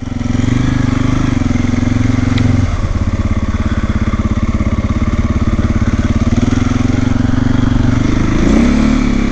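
Single-cylinder trail motorcycle engine pulling at low revs. The throttle opens about a third of a second in, eases briefly around three seconds, and the revs rise again near the end.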